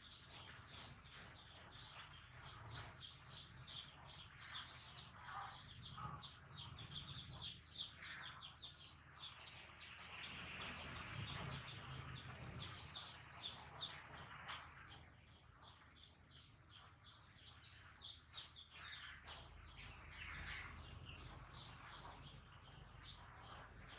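Faint outdoor background with a small bird chirping in a rapid, regular series, a few higher gliding chirps breaking in, over a low steady hum.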